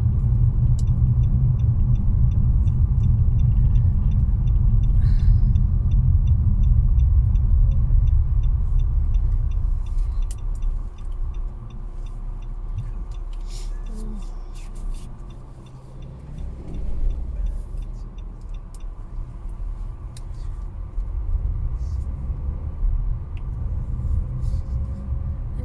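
Low car engine and road rumble heard from inside the cabin as the car slows and pulls over to the roadside; the rumble falls away about halfway through to a quieter running engine.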